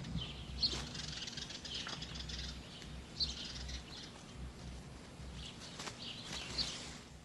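Scattered short, high-pitched chirping calls from small animals, about six or seven over a few seconds, over a faint steady low hum.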